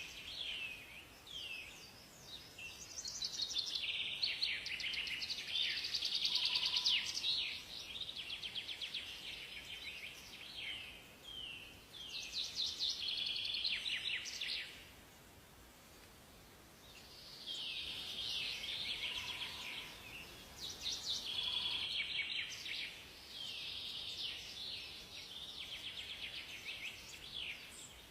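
Several birds singing together in a dense chorus of high chirps, quick trills and sliding whistles, easing off into a short lull about halfway through before picking up again.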